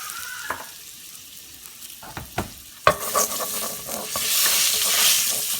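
Curry powder, garlic and ginger frying in hot oil in a pan, stirred with a few clicks of a utensil. After a sharp knock about three seconds in, the sizzle grows loud.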